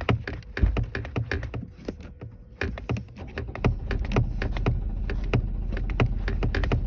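Van engine being tried with the accelerator pedal pumped: many sharp, irregular clicks and knocks over a low uneven rumble. About four seconds in, a steady low engine rumble sets in.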